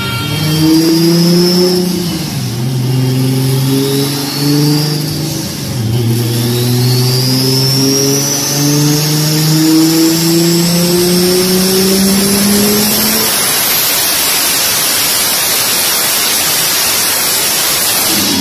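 Toyota Supra MK4's 2JZ-GTE turbocharged inline-six accelerating hard through the gears. The pitch climbs and drops at shifts about two and six seconds in, then makes one long rising pull, with a high whistle rising above it. After about thirteen seconds the engine note gives way to a steady rush.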